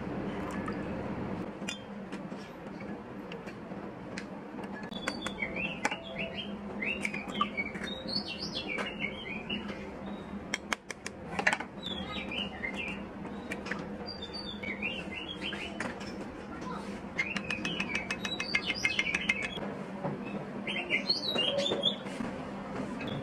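Small birds chirping in the background, many short twittering calls, with clinks and taps of a spoon against glass and ceramic bowls as sauce and egg are mixed; a quick run of taps comes a little past the middle.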